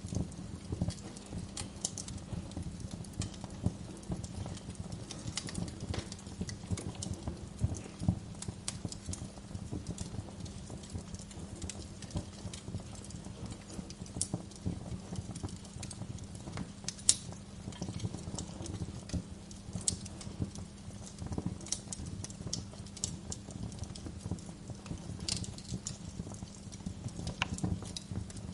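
Wood fire crackling in a fireplace: a dense, irregular run of small snaps and pops, with a few sharper, louder cracks, over a low steady rumble of the flames.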